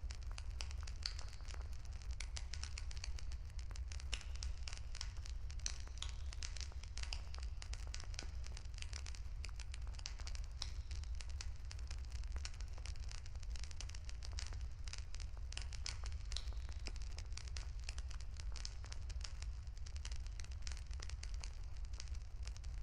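Wood campfire crackling: a dense, continuous run of small pops and snaps over a steady low rumble.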